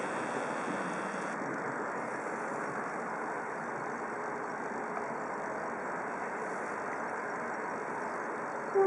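Steady noise of a train running through the station tracks. Just before the end, a DR Class 23.10 steam locomotive's whistle begins, loud and with several pitches sounding together.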